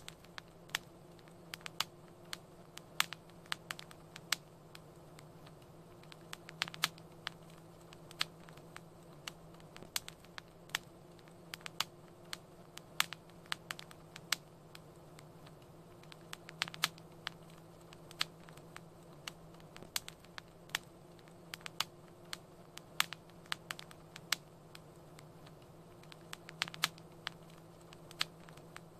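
Fireplace wood fire crackling: irregular sharp pops and snaps, several a second and varying in loudness, over a faint steady low hum.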